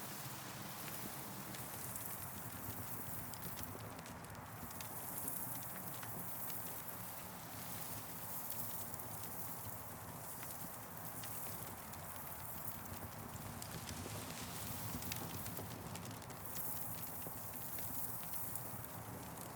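Campfire crackling, with frequent short sharp pops over a steady hiss; a high hiss swells and fades every few seconds.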